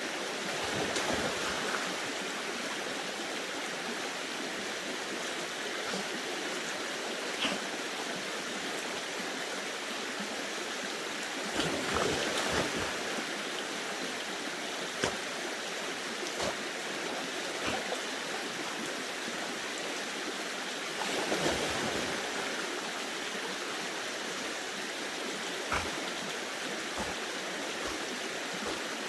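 Creek water running over rocks, a steady rushing, with a few short knocks now and then.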